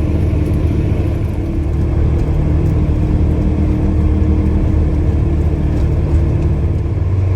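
2022 Polaris Ranger Crew 1000 XP side-by-side's 999 cc parallel-twin engine running steadily as the vehicle drives, a low even drone.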